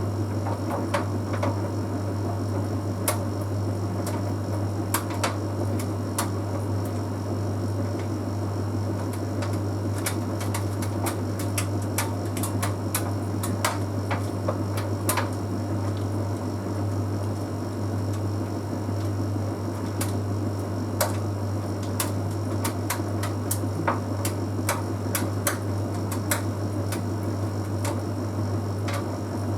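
Bosch Series 6 heat pump tumble dryer running mid-cycle: a steady low hum with many irregular light clicks and taps.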